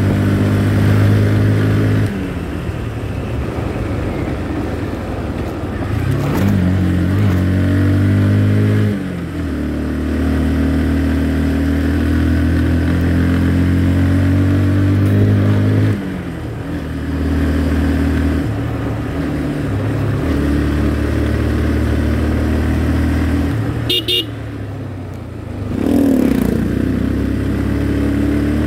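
Motorcycle engine running while riding, its pitch dropping and climbing several times with throttle and gear changes.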